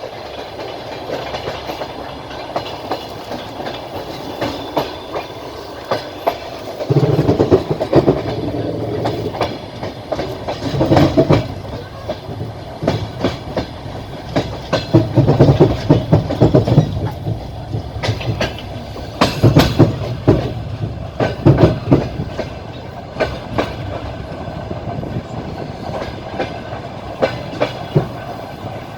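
Passenger train running on the rails, heard from a carriage window: steady running noise with the wheels clacking over rail joints. From about seven seconds in, louder low rumbling comes and goes in swells.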